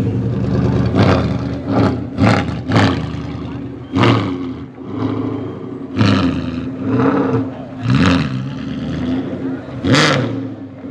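Maserati Mostro's V8 engine idling and being blipped repeatedly, its pitch climbing and falling back between revs, with about seven sharp loud bursts, the strongest near the end.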